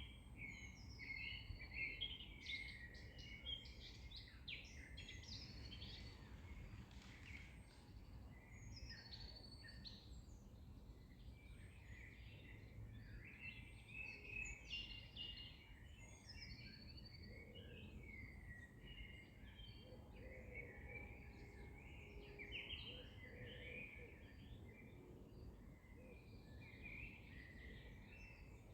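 A dawn-chorus-like mix of several songbirds singing and chirping, with overlapping quick chirps and trills throughout, heard faintly over a low background hum.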